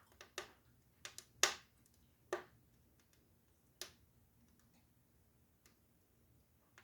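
Wood fire burning in a fireplace, crackling with irregular sharp pops, the loudest about one and a half seconds in.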